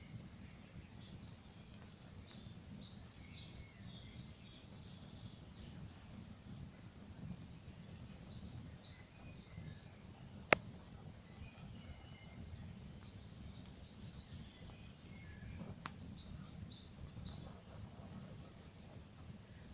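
Forest birds singing in three bursts of quick high chirps over the low, steady rumble of a burning campfire. A single sharp, loud pop from the fire about halfway through and a fainter one a few seconds later.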